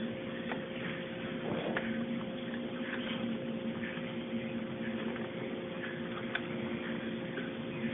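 Steady mechanical hum with a few faint, scattered clicks of small hardware being handled during a CPU installation.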